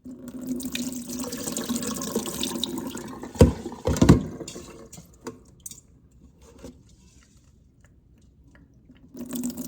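Kitchen tap water running into the Instant Pot's metal inner pot while rice is rinsed, then two heavy knocks a little over half a second apart. A quieter stretch with a few small clicks follows, and the tap comes on again near the end as the pot is filled with water for cooking the rice.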